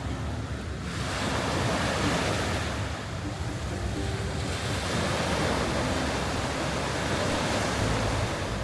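Sea surf washing onto a beach, with wind on the microphone. The wash swells about a second in, eases around three seconds, then builds again.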